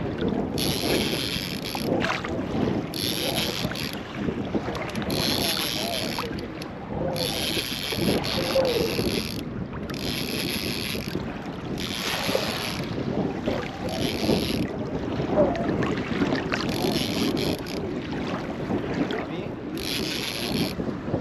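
Wind buffeting the microphone over choppy lake water around a fishing kayak. A hissing splash recurs irregularly every second or two.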